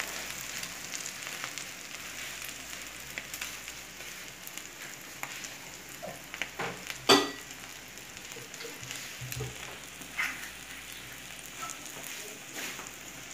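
Omelette with mortadella and bacon frying in bacon fat in a non-stick pan: a steady sizzle with light crackling. About seven seconds in there is a single sharp clink.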